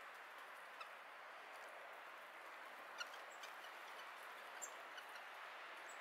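A few short, faint bird call notes over a faint steady hiss; the loudest note comes about three seconds in.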